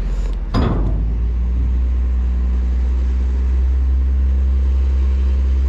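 A large engine running steadily with a deep drone. A sharp knock comes about half a second in, and after it the engine runs louder.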